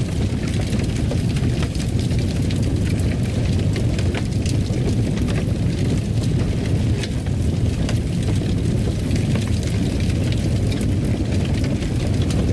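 Wood fire crackling in a fireplace: a steady low rumble of the flames with scattered sharp pops and crackles.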